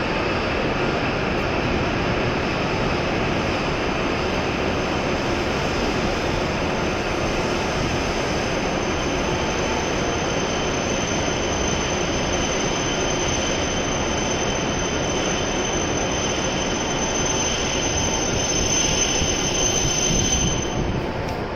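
E7 series Shinkansen train standing at the platform just after arrival: a steady rushing noise, with a faint high whine joining it partway through.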